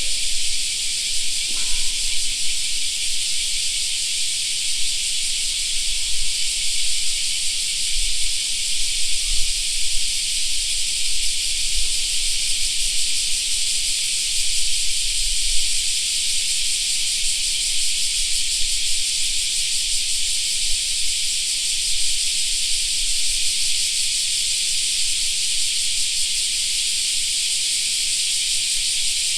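A chorus of cicadas singing, a dense, steady high-pitched drone that does not let up.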